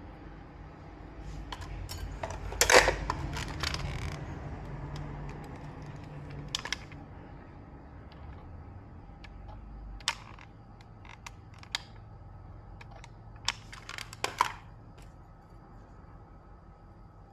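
Small hard objects being handled and set down on a workbench: scattered clicks and clatters over a low steady hum, with a loud rattling cluster about three seconds in and single clicks spaced out after it.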